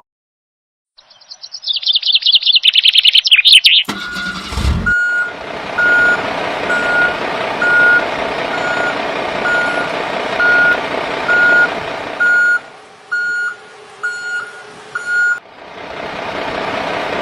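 A vehicle's reversing alarm beeping about once a second over a steady engine noise, the beeps quickening for a few seconds near the end. It is preceded by a loud high warbling sound in the first few seconds.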